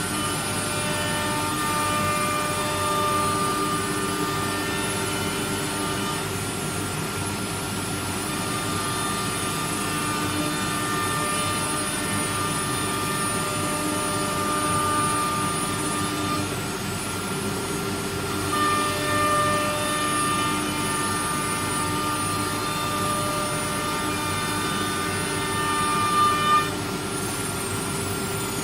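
CNC woodworking router running, a steady machine whine made of several pitched tones over a noise bed. The tones drop out for about two seconds in the middle, and two short louder blips come near the end before the tones stop.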